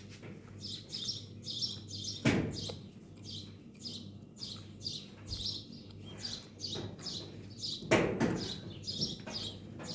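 A small bird chirping over and over, about two short high chirps a second. Two louder knocks cut in, a couple of seconds in and again near the end.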